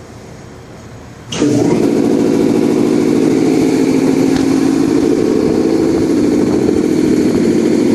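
BMW 228i's turbocharged 2.0-litre four-cylinder engine starting about a second in, then running steadily.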